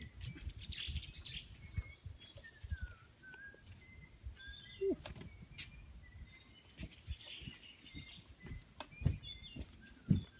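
Several birds calling in the forest: short scattered chirps and whistles, some gliding down in pitch, over a low rumble. A few soft thumps come near the end.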